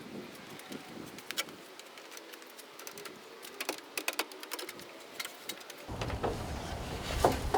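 Scattered light clicks and knocks of a heavy cast-iron drill press being shifted on wooden 2x12 planks. A low rumbling noise comes back about six seconds in.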